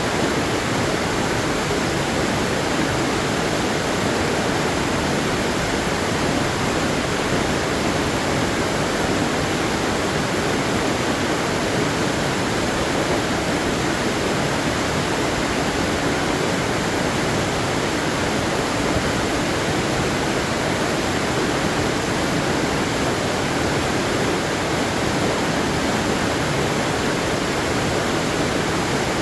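Waterfall: water falling and rushing in a steady, even hiss without pauses or changes.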